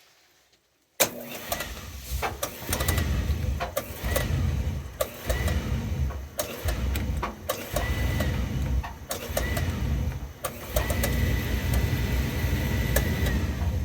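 Oil-fired boiler running: a low rumble starts suddenly about a second in and then swells and drops every second or two, with scattered clicks and a high tone that comes and goes, once held for a couple of seconds.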